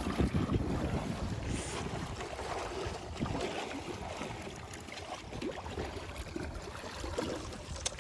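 Wind rushing over the microphone and water washing against a small boat as it moves across the sea, a steady rough noise with a few small knocks.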